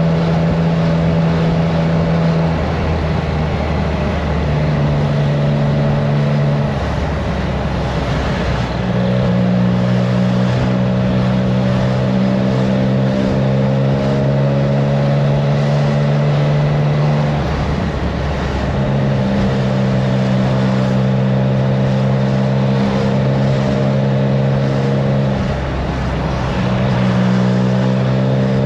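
Triumph Trident 660 inline-three engine through a FireTong aftermarket exhaust, heard from on the bike while riding at steady cruise. The engine note holds steady, with brief dips and pitch changes about three times as the throttle is eased and reopened.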